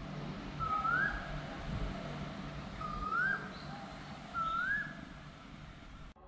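A bird calling three times, about two seconds apart. Each call is a single whistled note that slides up and then holds, over a steady low background noise.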